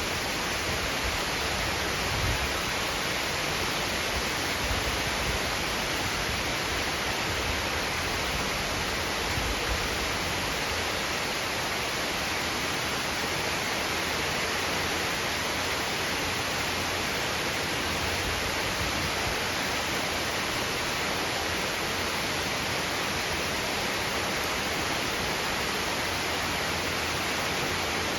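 Heavy cyclonic rain pouring down in a steady, dense hiss. A few low rumbles come in the first ten seconds or so.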